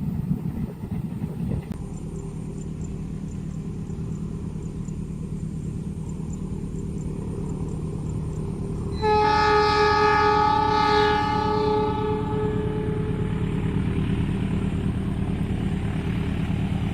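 Diesel train locomotive running with a steady low rumble, then about halfway through its horn sounds one long blast of about three seconds before the engine rumble carries on.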